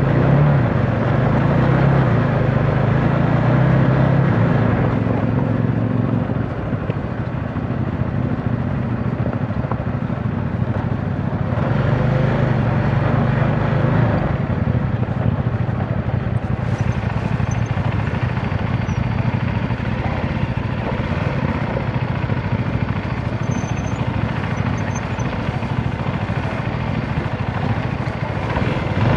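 CFMOTO motorcycle engine running while riding, with wind noise. The engine is strongest for the first six seconds, eases off, then pulls harder again briefly about twelve seconds in.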